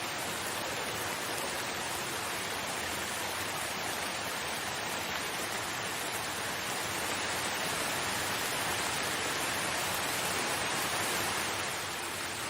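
Steady rain falling, an even dense hiss that swells slightly in the second half and eases back near the end.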